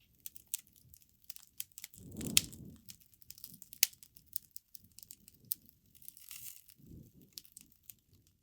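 Wood campfire crackling, with irregular sharp pops and snaps; the loudest pops come at about two and a half and four seconds in, and a brief low rush of flame sounds about two seconds in.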